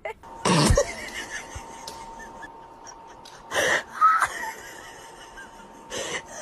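A person laughing breathlessly in wheezing gasps, with the loudest bursts about half a second in and again around three and a half seconds in.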